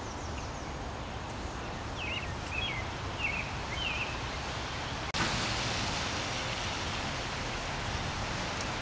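Outdoor ambience: steady wind noise and rustling, with a few short bird chirps between two and three seconds in; the noise turns hissier about five seconds in.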